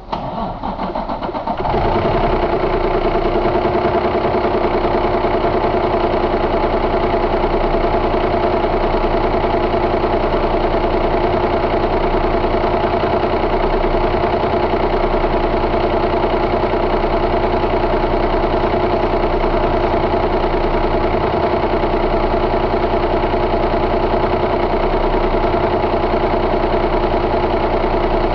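2004 Cummins ISX inline-six diesel engine starting, its level climbing unevenly over the first couple of seconds, then idling steadily.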